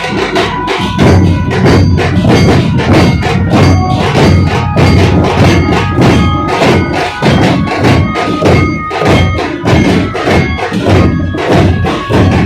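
A dhol pathak drum troupe playing a fast, loud rhythm of heavy barrel-drum strokes, growing louder about a second in.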